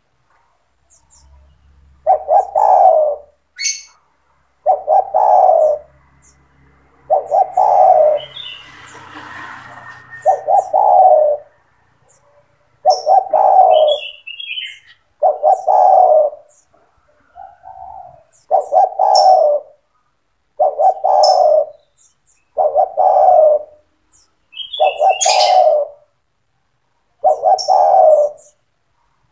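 Spotted dove cooing over and over, in loud, even phrases about every two to three seconds. Short high chirps of other small birds come in between.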